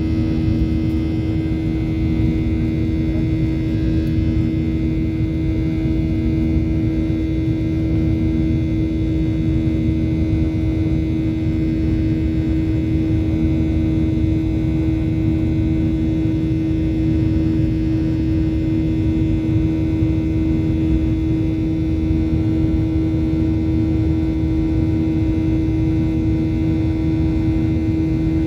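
Jet airliner engines heard from inside the passenger cabin: a steady drone with a strong constant hum over a low rumble.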